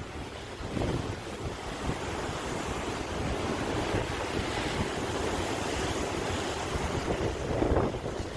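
Ocean waves breaking and washing on a shore, a continuous surf sound that swells about a second in and again near the end, with wind on the microphone.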